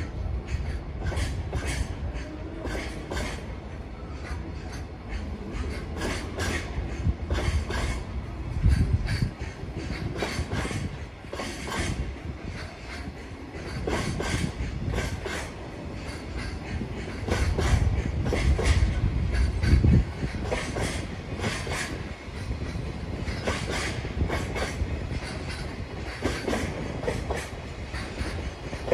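Long JR Freight container train of loaded flat wagons passing, its wheels clicking again and again over rail joints above a steady low rumble, which swells twice.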